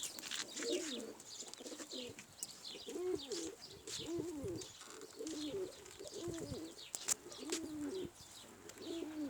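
Domestic pigeons cooing, low throaty coos repeated one after another, with faint scratchy ticks in between.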